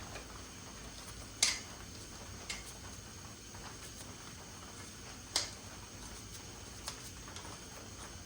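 A few sharp clinks and taps of hand tools and parts during work on an engine, four in all, the loudest about a second and a half in and another past five seconds, over a low steady background.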